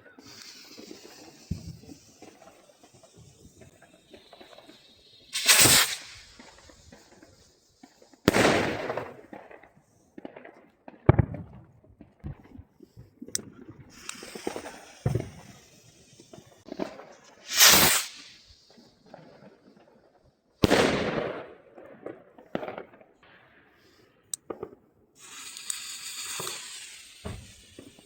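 1.5-inch ball rockets fired one after another: hissing launches and about six loud bangs as the shells burst, each bang trailing off in a long echo, with smaller cracks in between.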